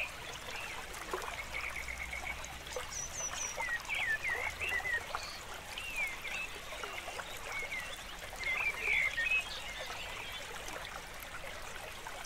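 Small birds chirping, many short rising and falling calls with a quick trill, over a steady background hiss.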